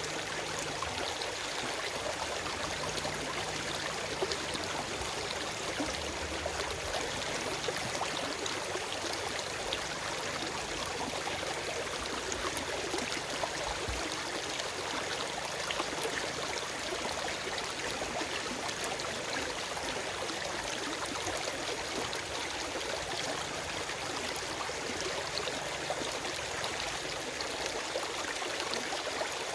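A forest stream flowing: steady rushing and babbling water with fine splashing detail, even throughout.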